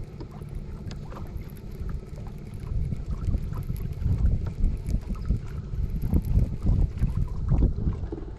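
Low, uneven rumble of wind buffeting the microphone, mixed with water against a fishing boat's hull and a few light knocks.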